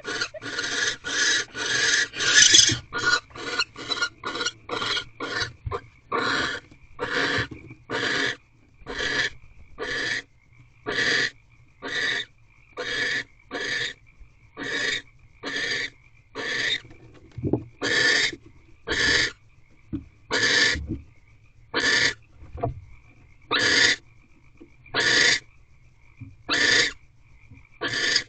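Barn owl giving a long series of harsh, hissing screech-snores. The calls come about two a second at first, then slow to about one a second.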